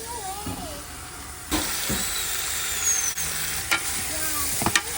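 Chicken pieces frying in curry in a pot, with a loud sizzle that starts suddenly about a second and a half in. A few sharp knocks of the stirring spoon against the pot come near the end.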